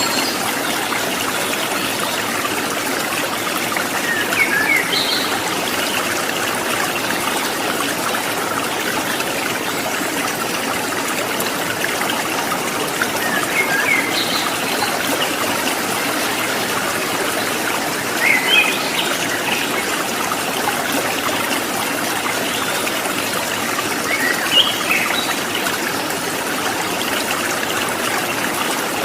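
Stream water trickling and babbling steadily, with short bird chirps breaking in every few seconds, about four times.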